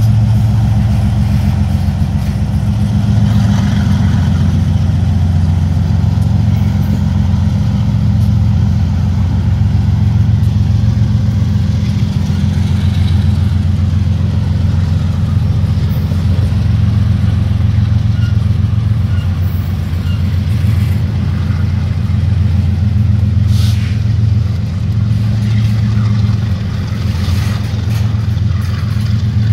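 Double-stack intermodal freight train rolling past at close range: a loud, steady low rumble with a few sharp clanks.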